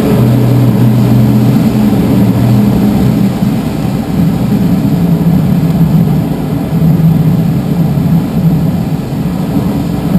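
Steady drone of the tow plane's propeller engine, over rushing air, heard inside a glider cockpit climbing on aerotow. The engine note shifts slightly about three seconds in.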